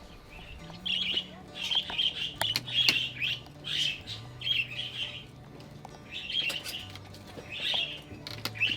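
Budgerigars chirping and squawking in quick, repeated bursts, starting about a second in.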